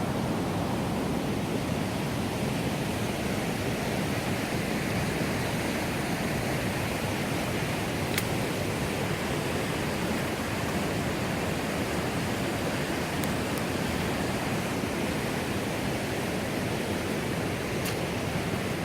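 River water rushing steadily, with a few faint sharp ticks about eight seconds in and later.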